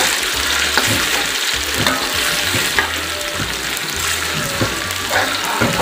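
Chili spice paste with lime leaves and lemongrass sizzling in hot oil in a wok, with a spatula scraping and tapping the pan at irregular moments as it is stirred.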